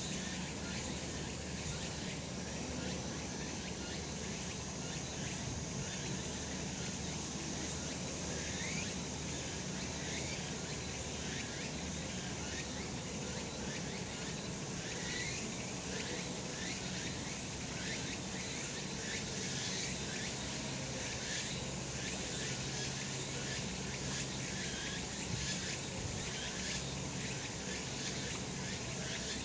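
Cicadas singing in a steady, continuous chorus.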